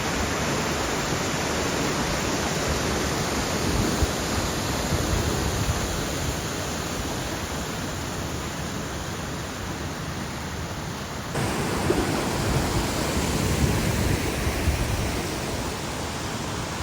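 River water rushing steadily over a stony bed, a dense even rush; the sound shifts abruptly about eleven seconds in.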